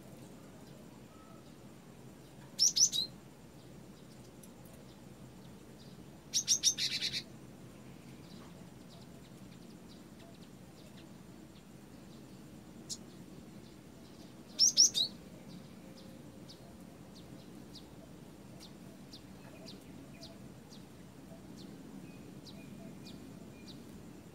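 Cinereous tit (gelatik batu) calling: three short bursts of rapid, high chattering notes, the second one the longest, with faint high ticks in between.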